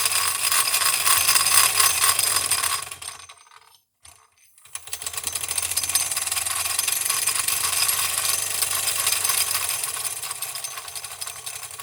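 Wilesco D36 model steam engine running fast: a rapid, even stream of exhaust beats and clatter from its small oscillating cylinder and gearing. It stops about three and a half seconds in and starts up again about a second later.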